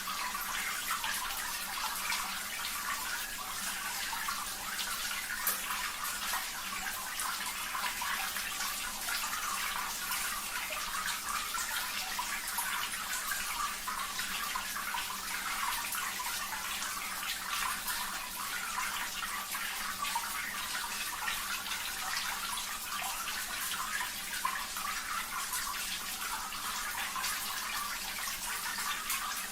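Steady running, trickling water with a fine splashing crackle, the 'water therapy' background sound; no birdsong stands out.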